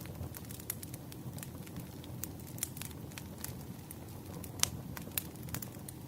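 Wood fire crackling: irregular sharp pops and snaps over a steady low rumble, with one louder pop about two-thirds of the way through.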